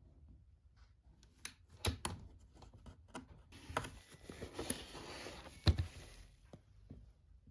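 Household handling noises in a small room: a few sharp clicks and knocks, then about two and a half seconds of rustling, scrubbing-like noise, ended by a sharp knock.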